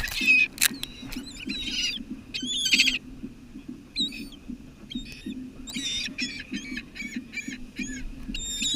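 A flock of seagulls calling: many short, high squawks, some in quick runs of several calls, loudest at the start and again in a burst near the end.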